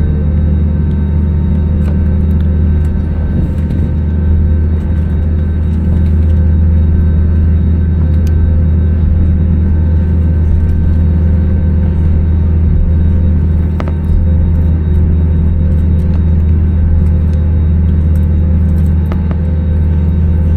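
Steady, loud low rumble of an Airbus A320neo's engines and airframe heard inside the passenger cabin, with a few faint clicks.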